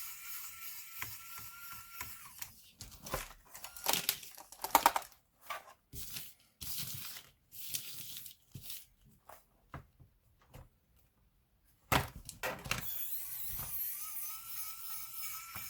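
Hard plastic laptop parts being handled: irregular clicks, crackles and short scrapes, with a steady faint high whine at the start and again from about thirteen seconds in.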